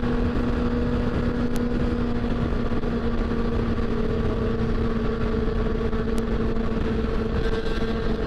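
Motorcycle engine holding a steady note at highway cruising speed under constant wind and road rush on the microphone. The pitch eases slightly a little past halfway.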